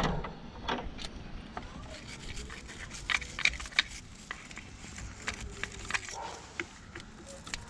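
Wire battery-terminal cleaning brush scraping and tapping at a corroded battery terminal: a run of irregular short scrapes and clicks as the corrosion is knocked off.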